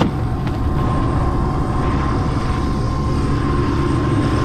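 MD500C helicopter's turbine engine idling on the ground: a steady whine over a dense low rumble.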